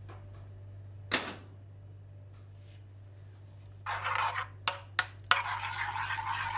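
A spoon in a bowl of beaten egg mixture: one sharp tap about a second in, a short scrape near the middle and two quick clicks, then steady scraping and stirring as the egg, onion and flax seed powder are mixed. A faint low hum runs underneath.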